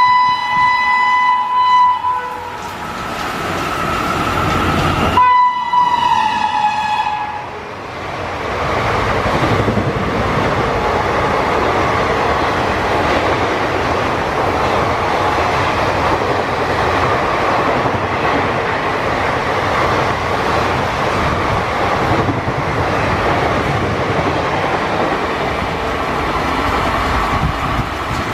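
WAP5 electric locomotive sounding its horn twice, the second blast falling slightly in pitch as it passes, followed by a long steady rumble and rush of its coaches going by at speed.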